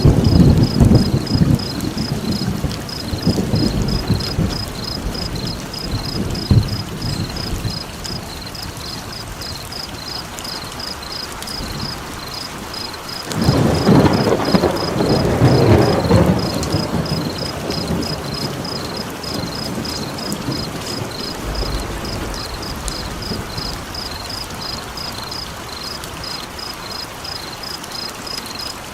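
Steady rain with rolling thunder: one rumble at the start and another about 13 seconds in. Over it runs an even, high-pitched chirping of about three pulses a second.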